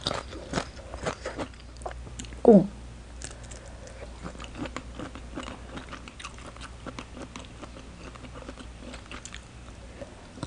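Close-up chewing and crunching of crisp shredded green mango salad, with loud crunches in the first second or so and a steady run of smaller crunches after. About two and a half seconds in there is a short vocal hum that falls in pitch.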